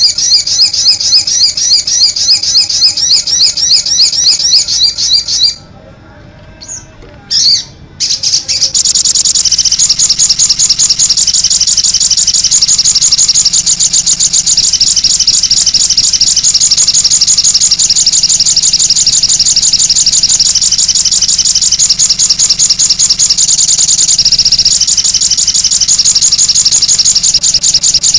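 Sogon (cit anten) bird calling in a fast, steady run of high, thin chirps, repeated many times a second. It breaks off briefly a few seconds in, then starts again, denser, and carries on.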